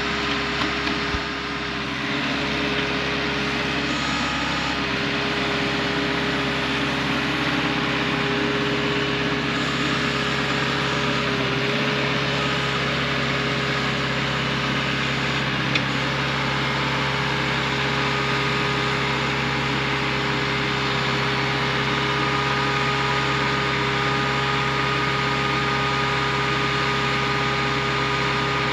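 Excavator's diesel engine running at a steady speed, an even mechanical hum with constant tones.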